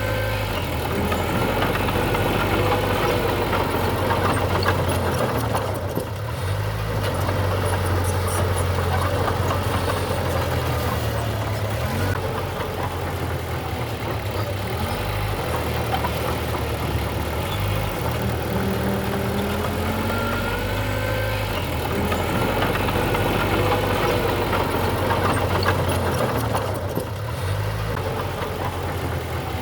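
Diesel engine of heavy earthmoving machinery running steadily, easing off briefly about six seconds in and again near the end. Faint sliding squeals come and go above the engine.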